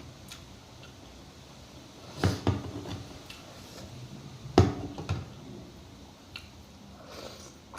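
Close-miked eating of chicken soup and rice: a few sharp clicks and knocks of eating on the plate, the loudest about two and a half and four and a half seconds in, with quieter mouth sounds between.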